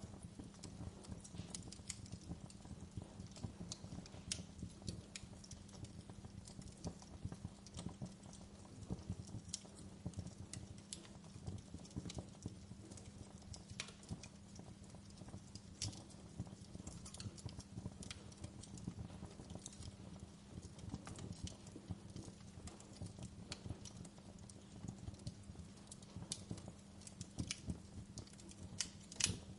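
Fireplace fire crackling, with irregular sharp pops over a steady low rumble and a quick cluster of louder pops near the end.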